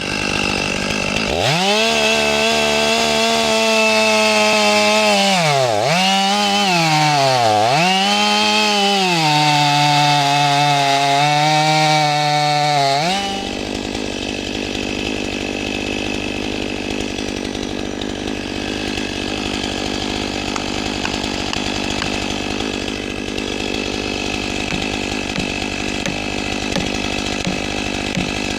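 Chainsaw running at high revs, its pitch dipping sharply twice and recovering. About thirteen seconds in it drops to a quieter, steadier, rasping noise.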